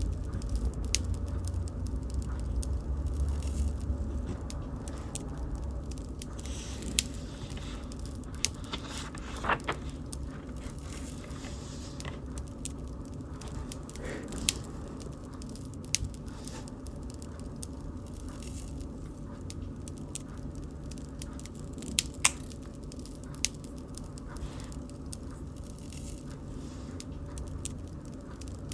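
Wood bonfire burning: a steady low rumble of flames under scattered sharp crackles and pops, a few of them louder, around seven, fourteen and twenty-two seconds in.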